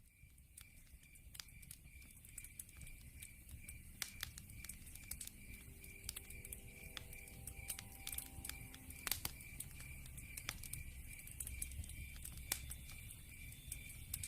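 Log fire crackling, with many sharp irregular pops, over the steady pulsing high trill of a cricket. The sound fades in at the start.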